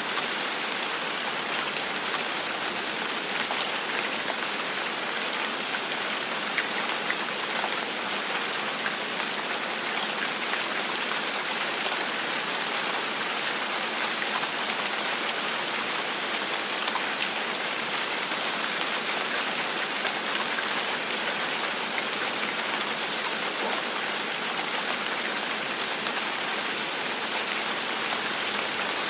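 Steady rain falling on a surface: an even hiss sprinkled with many small drop ticks.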